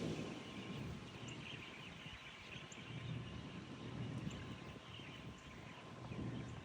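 Faint birds chirping outdoors over a low rumble of wind on the microphone, which eases after the first second.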